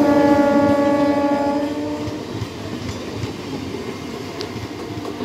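Eastern Railway three-phase Medha EMU passing, its horn sounding once for about two seconds at the start over the rumble and clatter of the coaches rolling by on the rails.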